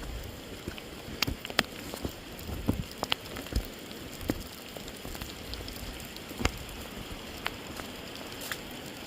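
Steady rain falling, with scattered sharp taps of drops striking close to the microphone.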